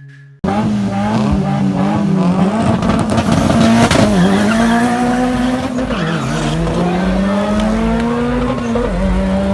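Drag-racing car accelerating hard down the quarter-mile, its engine pitch climbing and then dropping at gear changes about four, six and nine seconds in. The sound cuts in abruptly about half a second in.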